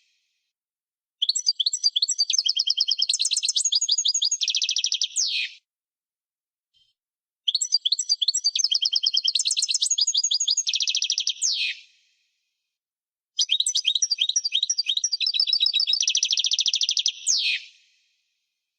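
European goldfinch singing: three song phrases of about four to five seconds each, separated by short stretches of silence. Each phrase is a rapid run of high twittering notes that ends in a quick falling sweep.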